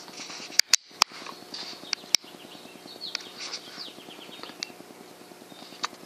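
Small birds chirping, with a few sharp clicks and a steady low hum underneath.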